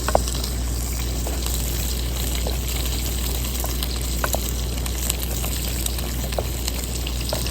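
Bacon frying in a pan: a steady sizzle with scattered small pops and crackles.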